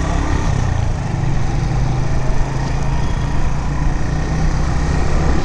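Suzuki GS150 motorcycle's single-cylinder four-stroke engine running steadily while being ridden, with a steady rushing noise over it.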